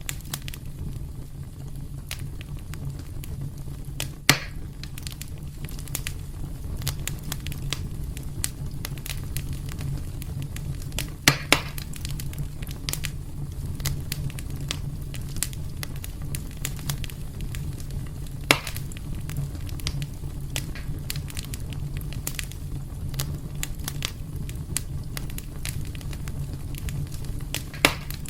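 Wood fire burning in a fireplace: a steady low rumble of flames with constant small crackles and a few louder pops, about four seconds in, twice near the middle, again later and near the end.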